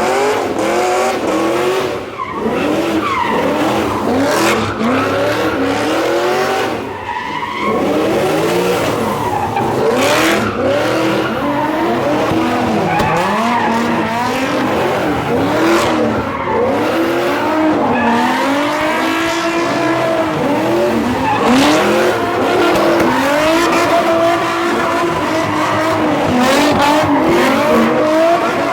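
Car engines revving up and down over and over with tires squealing, as cars do donuts and drift.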